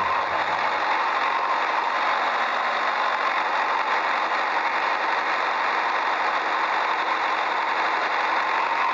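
A small motor running steadily: an even, unchanging hum with most of its energy in the middle range and little low end.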